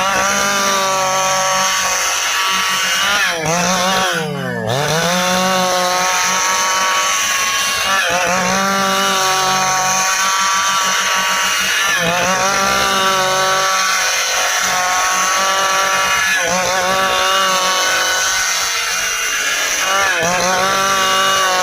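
Stihl two-stroke chainsaw sawing through dry ipê hardwood, its engine speed swinging up and dipping about every four seconds as the throttle is worked, with one sharp drop and re-rev about four seconds in.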